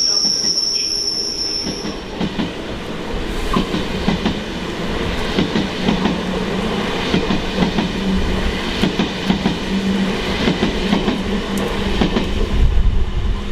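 A train moving through a station platform. High-pitched wheel squeal for about the first two seconds, then a steady rumble with wheels clattering over the rails.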